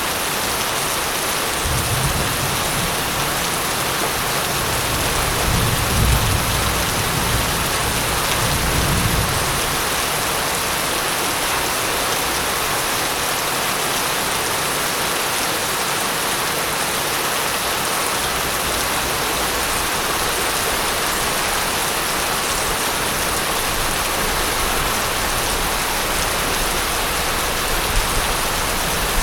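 Steady heavy rainfall hissing, with a roll of thunder rumbling low from about two seconds in, swelling near six seconds and fading out by about nine and a half seconds.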